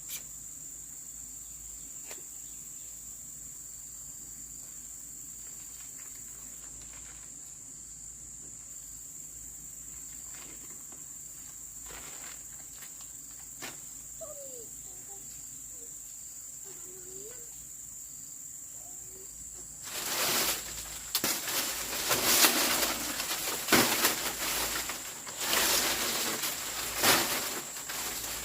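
A steady high-pitched insect trill, typical of crickets, over a quiet background with a few faint clicks. About twenty seconds in, loud irregular rustling and scraping noises start and continue in uneven bursts.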